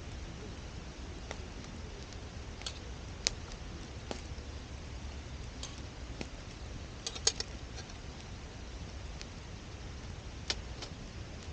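Wood fire burning in a campfire stand, crackling with scattered sharp pops, a quick cluster of them about seven seconds in, over a low steady rumble.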